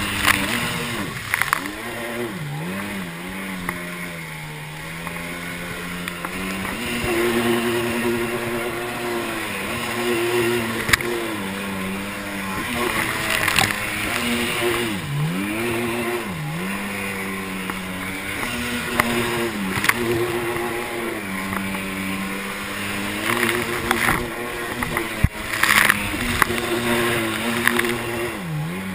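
Sea-Doo XP jet ski's 951cc two-stroke twin engine running on the sea. Its pitch drops and climbs again several times as the throttle is eased and reopened, with a few short bursts of rushing water noise.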